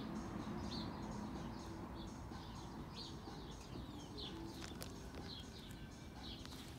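A small bird chirping repeatedly, short falling chirps about once a second, over a steady low background rumble.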